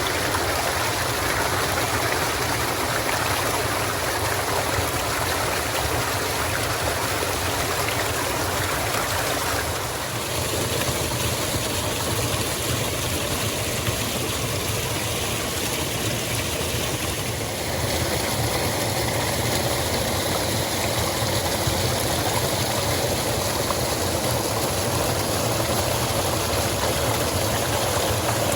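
Forest stream running steadily, a continuous rush of water. Its sound shifts abruptly twice, about a third of the way in and again a little past halfway.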